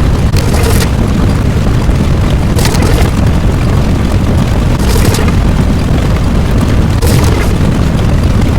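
Loud, continuous low rumbling like an explosion sound effect, with a brief crackling hiss flaring up about every two seconds.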